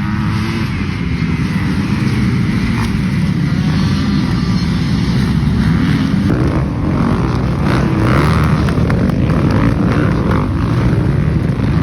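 Motocross dirt bike engines running loud and steady.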